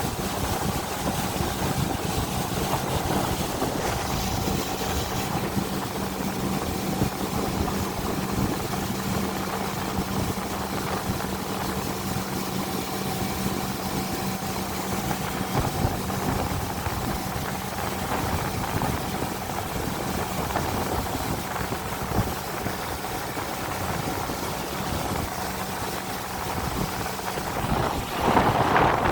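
Motorboat engine running steadily under way, with the rush of wind and water over it; a louder rush comes near the end.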